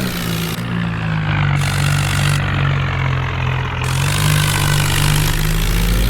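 Swaraj 855 tractor's three-cylinder diesel engine running steadily under throttle, its pitch lifting slightly about two-thirds of the way through.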